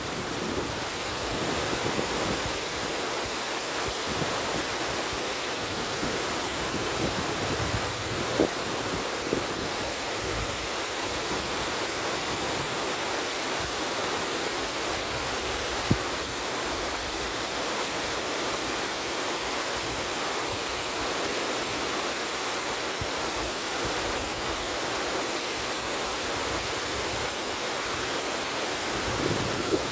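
River water rushing steadily with wind, an even hiss, broken by a few short knocks about 8, 9 and 16 seconds in.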